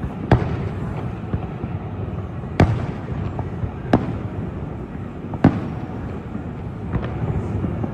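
Fireworks shells bursting: about five sharp bangs, one every second or two, over a steady background rumble.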